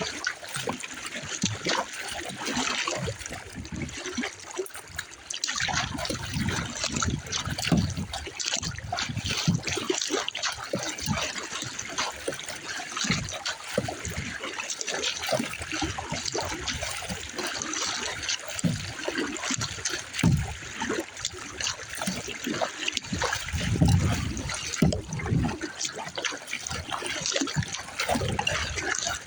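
Water splashing and trickling around a small kayak on choppy open water, in an irregular, continuous run of small splashes. Low rumbles of wind on the microphone swell up several times, strongest about a third of the way in and again near the end.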